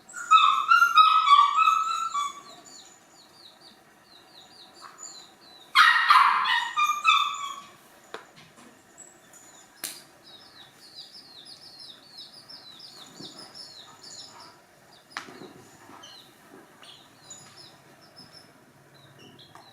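A hen gives two loud squawking calls, one at the start and one about six seconds in, while chicks peep continuously with quick high chirps.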